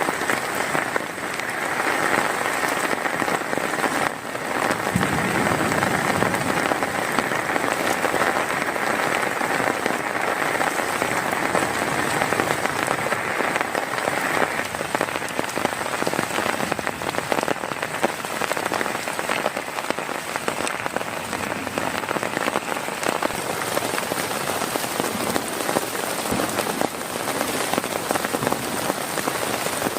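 Heavy rain falling steadily on a tent, a dense patter of countless drops.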